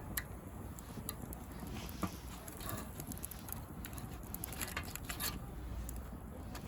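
Bonfire of dry pruned rose branches and twigs crackling, with irregular sharp snaps and pops over a low steady rumble; the loudest pop comes about two seconds in.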